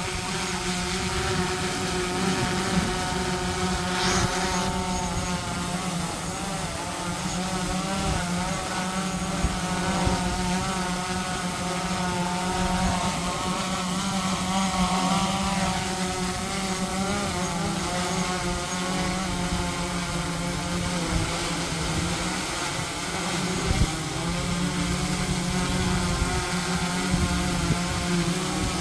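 DJI Mavic 3 Pro drone's propellers whining as it hovers low in strong wind, the pitch wavering up and down, with wind buffeting the microphone. A brief hiss about four seconds in.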